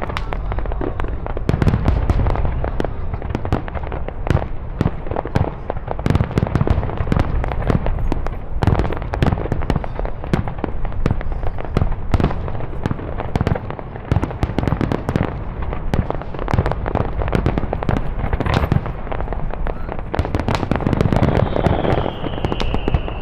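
Fireworks display: a dense, continuous barrage of bangs and crackling reports, with a high whistle near the end.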